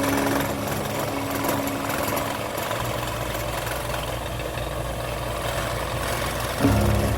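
Electric scroll saw running steadily with an even mechanical hum. Faint background music fades out in the first couple of seconds.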